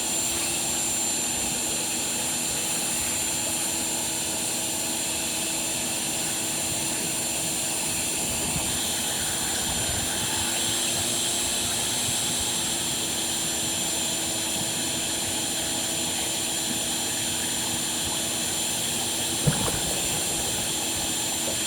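A machine running steadily, a droning noise with a constant high whine, and a single knock near the end.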